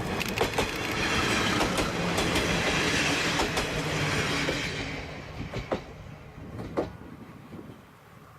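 Diesel railcar passing by: engine running and wheels clacking over rail joints. Loudest in the first few seconds, fading away after about five seconds, with a few sharp clacks as it goes.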